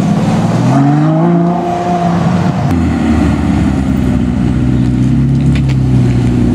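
Car engine accelerating: its pitch climbs, drops once at a gear change a little under a second in, climbs again, then settles to a steady lower drone.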